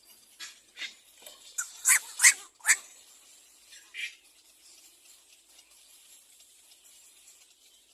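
Little egret calls: a string of short, noisy squawks, three loud ones in quick succession about two seconds in and a last one near four seconds.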